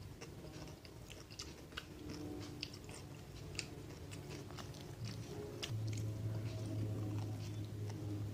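Close-miked eating by hand: fried tilapia and side dishes being bitten and chewed, with many short, sharp, wet clicks of the mouth and fingers. A low steady hum comes in past the middle and becomes the loudest sound.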